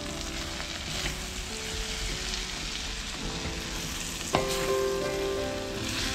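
Black-eyed peas and onions sizzling in hot oil in a clay pot while a wooden spoon stirs them, with a steady frying hiss. A single sharp knock sounds about four seconds in.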